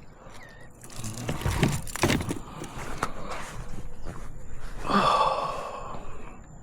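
Irregular knocks and clatter of handling on a kayak while a caught fish is dealt with, with a louder rush of rough noise about five seconds in.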